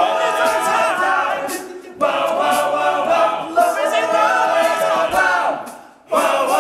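Male a cappella group singing in close harmony, with no instruments, in phrases that break off briefly about two seconds in and again near the end.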